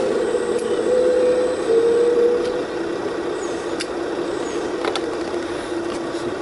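Full-size excavator's diesel engine and hydraulics running under load. The pitch is higher for the first couple of seconds, then drops and holds steady, with a few sharp clicks partway through.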